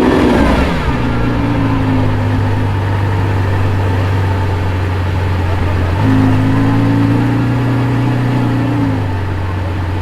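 Lamborghini Aventador SVJ's naturally aspirated V12 dropping back from a rev at the start, then idling steadily. Its note grows fuller and louder for about three seconds from around six seconds in, then settles back.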